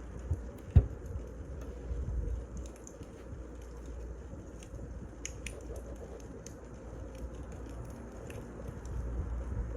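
Wood fire crackling: a low steady rumble with scattered sharp pops and snaps, and a louder dull thump about a second in.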